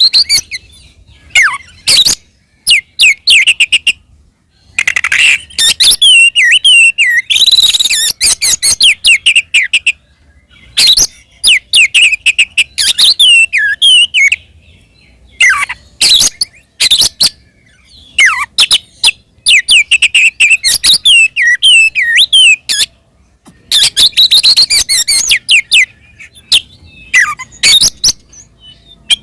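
Oriental magpie-robin (kacer) singing a loud, aggressive territorial song of rapid whistled and chattering notes. The song comes in bursts of one to three seconds with short pauses between them.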